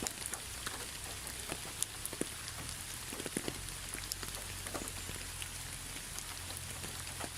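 Steady rain falling, with many separate drops ticking sharply on a hard surface over an even hiss.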